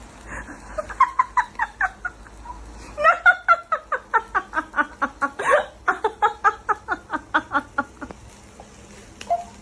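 Hard, rhythmic laughing: a short run of quick 'ha' bursts about a second in, then a longer run of about five bursts a second.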